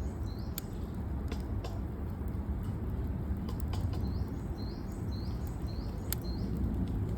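Wood campfire crackling with occasional sharp pops over a low rumble, and a bird chirping repeatedly, about twice a second, in the second half.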